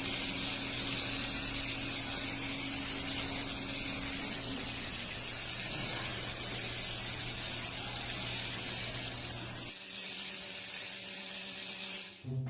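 Wall-cleaning machine running: a steady hiss of spraying water over a motor's hum. The hum's lowest tone drops out about ten seconds in.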